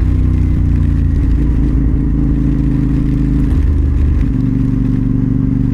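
CFMoto 450SR's parallel-twin engine running under way at a steady pace, its note shifting briefly about four seconds in.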